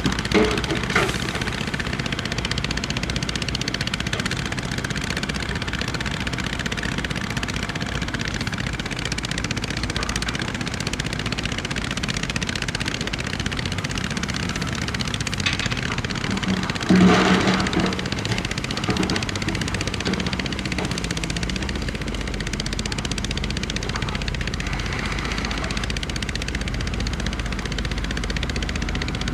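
Heavy earthmoving machinery running: a diesel engine's steady drone under a dense rattle, with louder bursts of clatter just after the start and about 17 seconds in.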